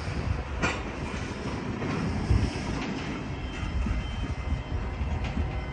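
Tank cars of a CSX mixed freight train easing slowly past: a steady rumble of wheels on rail, with a sharp click of a wheel over a rail joint about half a second in and another near the end.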